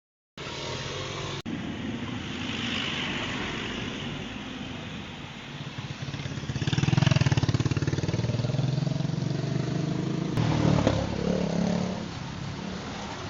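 Motor vehicle engine sound with road noise, swelling louder as a vehicle passes about seven seconds in, then again near eleven seconds. The sound changes abruptly a couple of times where clips are cut together.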